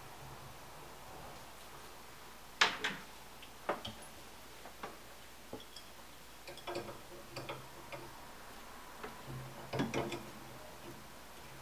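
Scattered clicks and light knocks of hard objects being handled, irregular, with the sharpest knock about two and a half seconds in and a quick cluster near the end.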